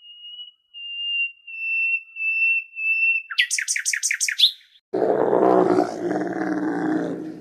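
A high, steady whistled call repeated in short pulses, then a quick run of about seven falling chirps, typical of a bird. About five seconds in, a large animal gives a loud, low, drawn-out call.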